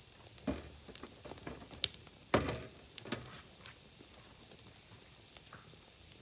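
Wood fire crackling, with scattered pops, one sharp crack about two seconds in, and a few dull thuds.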